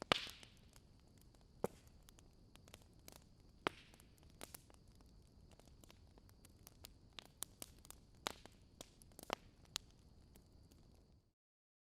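Fire crackling: irregular sharp pops and snaps over a faint hiss, cutting off abruptly near the end.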